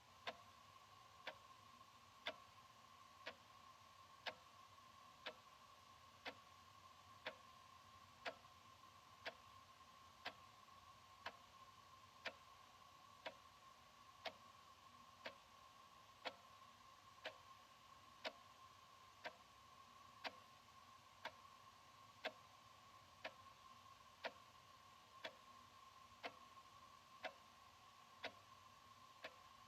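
Analog wall clock ticking, faint, one even tick about every second, with a faint steady tone underneath.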